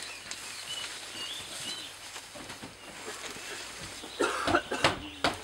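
Faint bird chirps over quiet outdoor ambience, then a few short thuds near the end.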